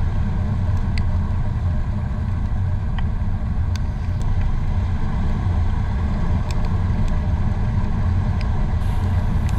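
Steady wind rush and low rumble on the microphone while riding a Royal Enfield Himalayan motorcycle, with a few faint ticks.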